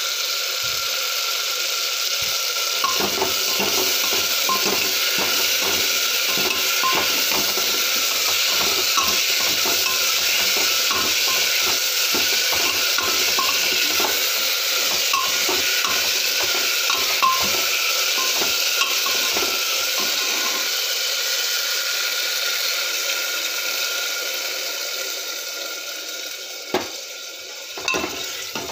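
Potato and capsicum sabzi sizzling in a pan, with a spoon stirring and clinking against the pan in quick, repeated strokes from about three seconds in until about two-thirds of the way through. The sizzle then eases, with a few separate knocks near the end.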